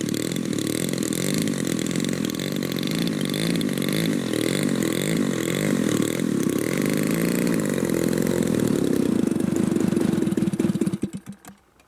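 Giant-scale RC model warbird engine idling steadily on the ground, then cut off about eleven seconds in, stuttering to a stop.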